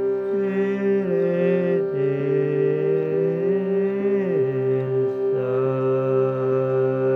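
Shruti box drone held steady while a voice sings long wordless notes over it. The voice slides between pitches and settles on a low held note after about five seconds.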